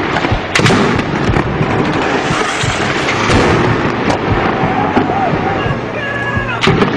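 A dense run of sharp bangs and blasts over a continuous rumbling noise.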